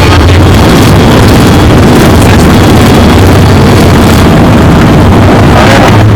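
Loud, steady rush of airflow and jet engine noise in an airliner cockpit, with a steady low hum underneath.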